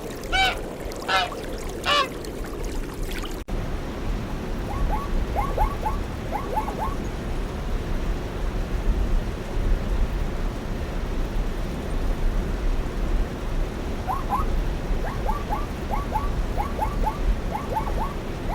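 Bird calls: three loud honking calls in the first few seconds, then, after a cut, clusters of two or three short chirps over a low, steady rumble.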